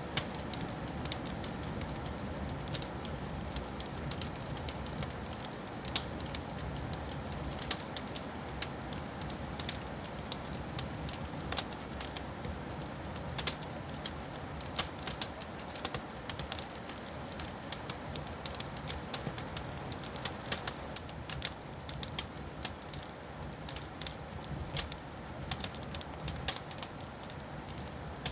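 Wood fire in a fireplace crackling, with many sharp pops and snaps over a steady low rumble of burning.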